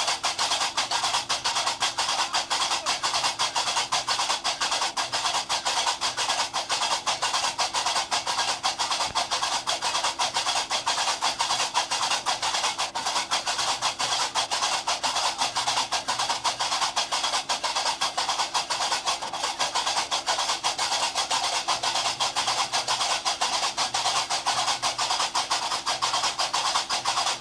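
Gnawa music: a fast, steady, unbroken clacking of qraqeb, the iron castanets, played without singing, with a faint low drone underneath.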